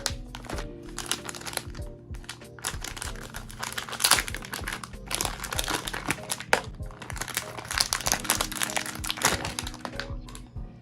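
Packaging being handled and unwrapped, a dense, irregular crinkling and rustling, over background music.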